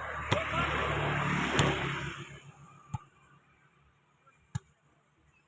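Volleyball being struck: four sharp smacks of hand on ball, spaced a second or more apart. Loud background noise with a low hum dies away about two seconds in, leaving the last two smacks in near quiet.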